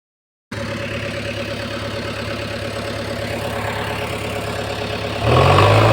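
A diesel engine idling steadily; just after five seconds in it gets louder and runs slightly higher.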